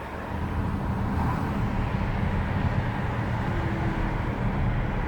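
A car driving along a road: steady engine and tyre noise with a low hum.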